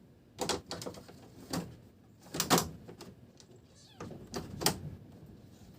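Irregular knocks and clicks of hard parts being handled, bunched in two clusters, the loudest about two and a half seconds in: typical of a split-type air conditioner's plastic filter and front panel being fitted back into place.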